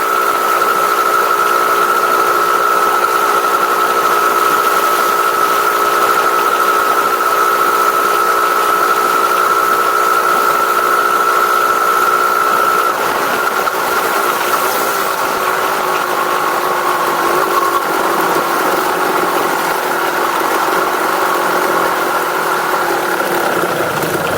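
Vehicle engine with a stock exhaust idling steadily, its pitch shifting slightly about halfway through.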